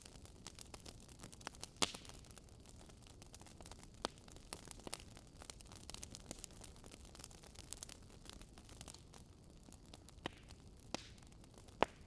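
Campfire burning: burning wood crackling with irregular sharp pops, the strongest about two seconds in and near the end, over a low, steady rush of flame.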